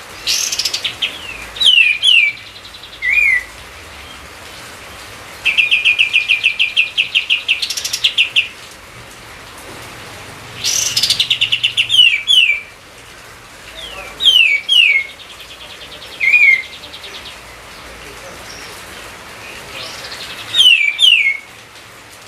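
A songbird singing loud, repeated phrases every few seconds: fast rattling trills of short notes, and pairs of sharp down-slurred whistles. A steady hiss runs underneath.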